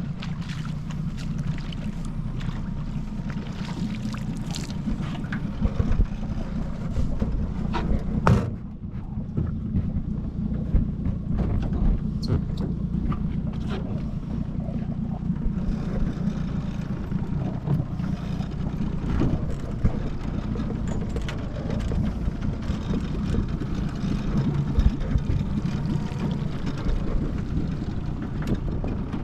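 25 hp Mercury four-stroke outboard motor running steadily with the jon boat underway, with occasional short knocks over it.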